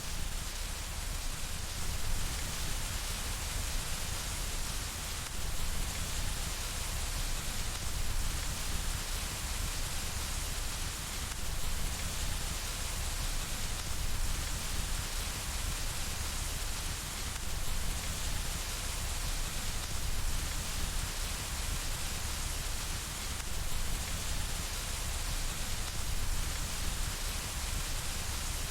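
Steady rain hitting window glass: a continuous, even hiss with a low rumble underneath.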